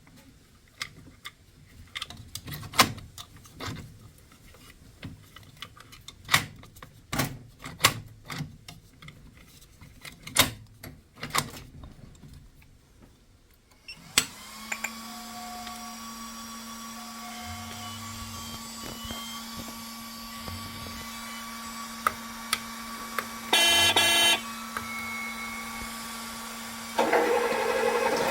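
Radio-controlled model excavators being handled and powered up: scattered sharp clicks and knocks, then a steady electric hum with a few short beeps and a quick run of beeps, and a louder motor starting up near the end.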